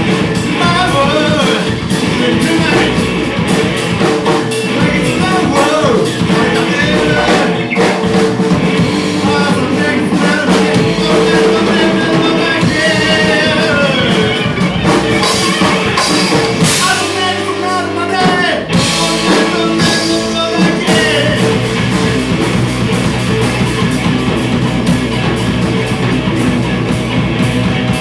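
Live rock band playing with a singer, drums and electric guitar, the band dropping out briefly for a moment past the middle before coming back in.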